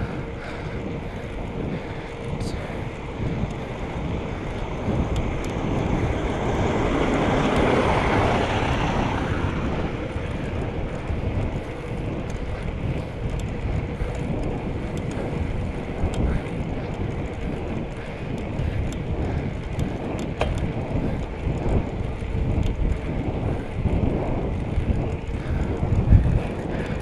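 Wind buffeting the microphone during a bicycle ride, a steady low rumble, with a louder swell that rises and falls about seven to nine seconds in.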